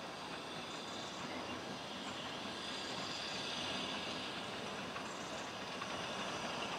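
Narrow-gauge steam-hauled train running in the distance, a steady rumble of the locomotive and carriages on the rails, growing a little louder partway through as it comes nearer.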